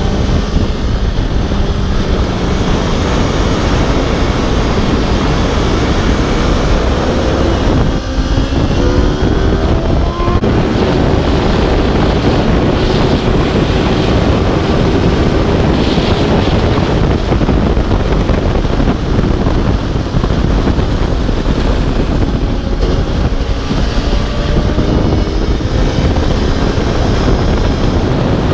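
Aprilia RSV4's V4 engine revving up through the gears, its pitch climbing and breaking off at each shift, mixed with heavy wind noise on the microphone at speed.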